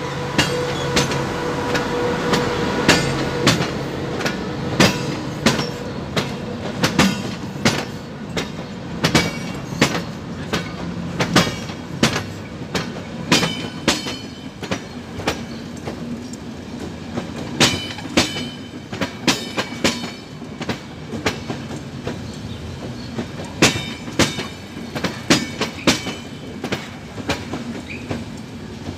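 A locomotive-hauled passenger train passing close by: the locomotive's steady tone fades in the first couple of seconds, then the coaches' wheels clatter over rail joints in a continuing run of sharp clicks.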